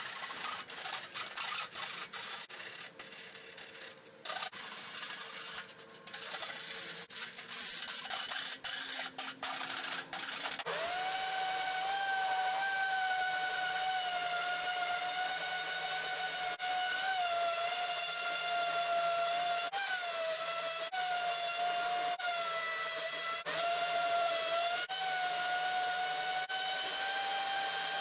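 Rasping strokes of a body file across dried Bondo filler on sheet metal. About ten seconds in, a power tool starts with a steady whine that dips briefly a few times as it is pressed into the work.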